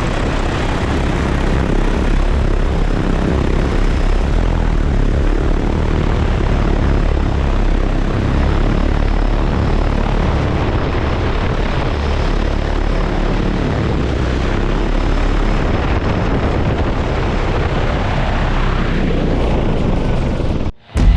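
Agricultural spray drone's propellers droning steadily as it flies, with a heavy low rumble underneath; the sound cuts off abruptly near the end.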